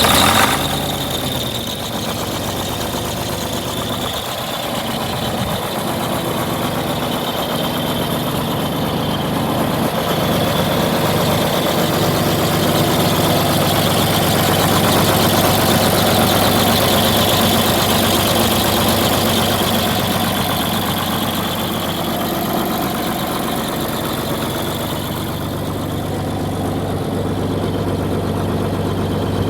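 1976 John Deere 4230 tractor's six-cylinder diesel engine idling steadily just after starting.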